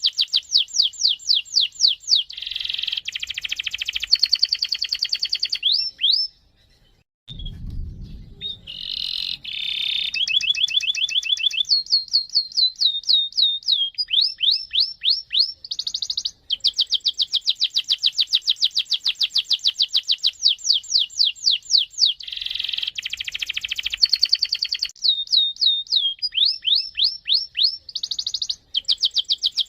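Canary singing a long rolling song: fast trills of repeated falling notes alternating with buzzing rolls, broken by a short pause and a low thump about seven seconds in.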